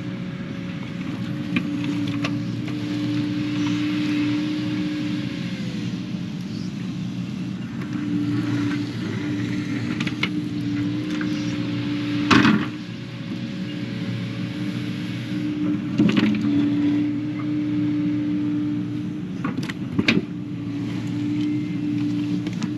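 Kubota KX080 excavator working: its diesel engine runs steadily under a hydraulic whine that drops out and comes back as the controls are worked. Several sharp knocks stand out, the loudest about twelve seconds in.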